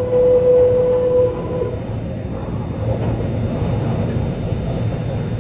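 Kobe Electric Railway train running slowly along a station platform. A steady whine from the train eases slightly down in pitch and stops about a second in, leaving the low rumble of the wheels and running gear.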